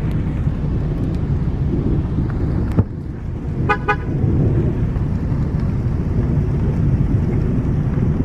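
Steady low rumble of car and wind noise, with a sharp click a little under three seconds in, then two quick short car-horn beeps about a second later.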